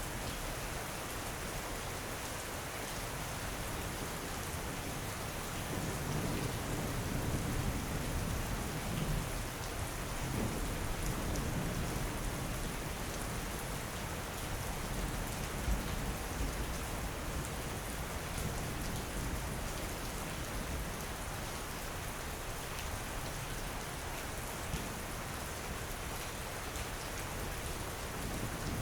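Steady rain, with a low thunder rumble swelling between about six and twelve seconds in.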